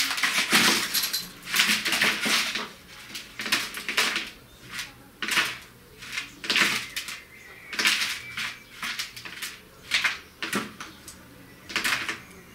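Irregular bursts of rustling, scraping and tapping, about one every second or so: a blackbird fluttering, hopping and pecking against a simple homemade bird trap.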